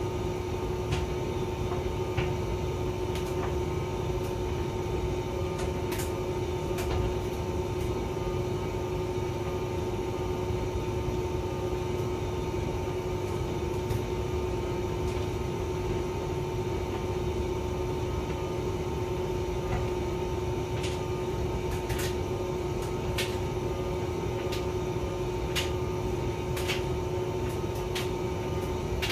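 Hotpoint vented tumble dryer running: a steady motor-and-fan hum with a constant tone over a low drum rumble, and scattered light clicks.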